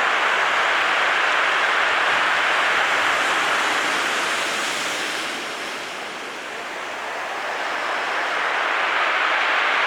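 Steady rush of water, easing briefly about six seconds in and building again.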